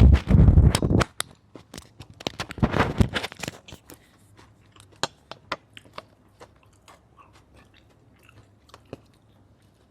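Close-miked chewing and crunching of grilled pork neck salad and rice. There are two loud bursts, one at the start and one about two and a half seconds in, then scattered wet mouth clicks that grow sparser.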